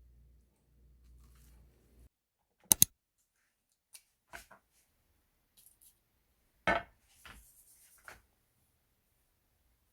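A faint low hum that stops about two seconds in, then a scattered series of sharp clicks and light knocks from small hard objects being handled. The loudest are a quick double click about three seconds in and a single knock just before seven seconds.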